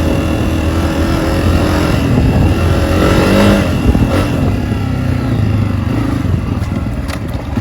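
Honda CRF250F dirt bike's single-cylinder four-stroke engine running on a trail ride, its pitch rising and falling as the throttle is worked.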